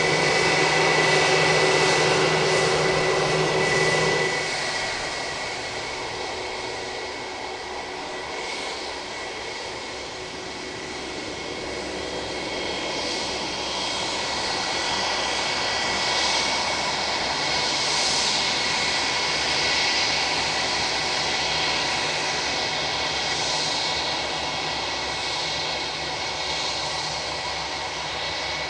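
Airbus A320-232's IAE V2500 jet engines running at idle power on the ground: a steady whine with a high tone over a rushing noise. It drops somewhat about four seconds in, then slowly swells again.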